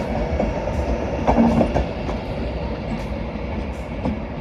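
Passenger train running through the station, its wheels clacking over rail joints and points against a steady rumble.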